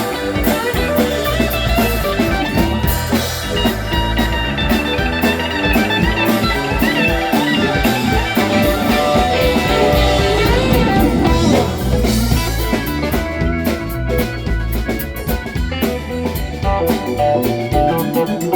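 Live band playing an instrumental stretch of a blues-rock song: guitar over a drum kit, with no singing.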